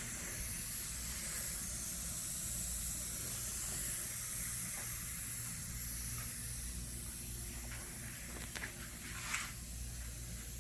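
Steady background hiss with a low steady hum, and a couple of faint clicks near the end.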